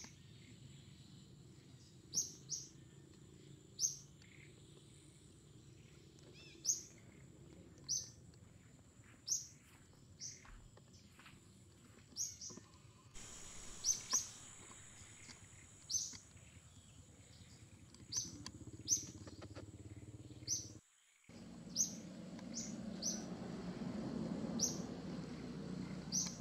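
A bird chirping repeatedly: short, sharp, high chirps rising in pitch, one every second or two. A steady high whine runs behind, and a low rumble rises near the end.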